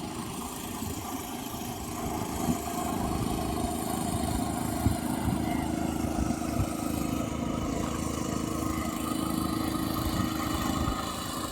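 Petrol boat engine running steadily at a constant speed, with the hiss of water and air around the hull; it gets a little louder about two seconds in and eases slightly near the end.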